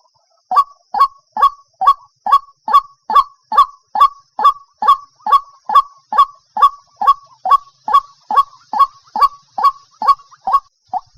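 White-breasted waterhen calling: a steady, monotonous series of short, harsh notes, a little over two a second, starting after a brief pause. This is the bird's March call, recorded for use as a lure.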